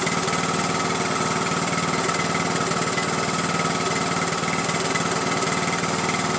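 Craftsman YT3000 lawn tractor's engine running steadily, an even, unchanging pulse.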